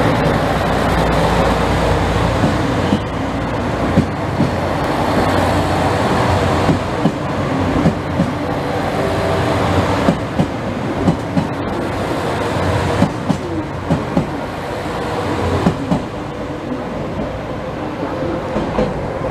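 Passenger trains running through a station: a steady rumble with wheels clacking over rail joints, and a few short squeals toward the end.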